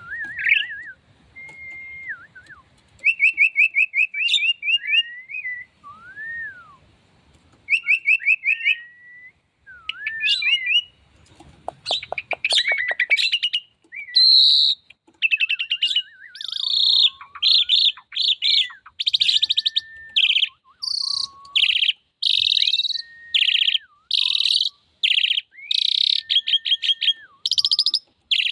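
Female pied starling (jalak suren) singing almost without pause: clear whistled glides, rapid repeated chattering notes and harsh buzzy calls. The harsh buzzy notes become louder and more frequent in the second half.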